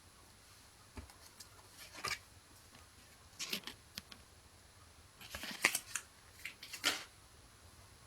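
Pokémon trading cards being slid and flicked against one another as the pack is sorted through, in about half a dozen brief, quiet swipes.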